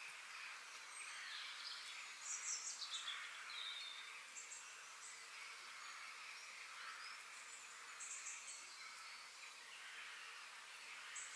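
Forest birds chirping and singing in short high phrases over a steady high hiss of background ambience. The loudest is a rapid high trill that falls in pitch about two and a half seconds in.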